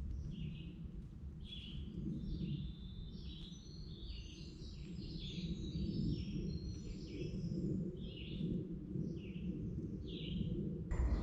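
Woodland birds chirping with short, repeated notes, several calling at once for a few seconds in the middle, over a steady low rumble. A sudden rustle starts near the end.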